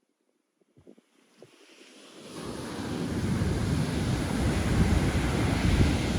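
Near silence with a few faint clicks, then Pacific Ocean surf rises in about two seconds in. It becomes a loud, steady wash of breaking waves with wind buffeting the microphone.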